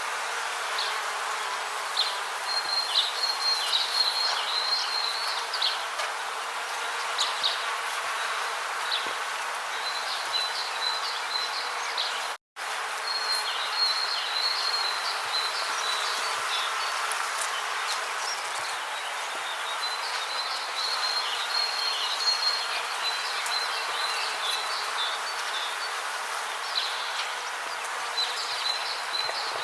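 Rain forest ambience: insects chirping in quick repeated trains, high-pitched, coming and going over a steady background hiss. About twelve seconds in, all sound drops out for a split second.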